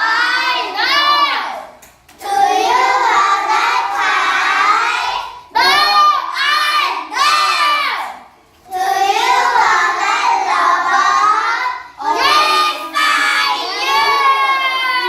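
Young children singing together in short phrases, with brief pauses between them.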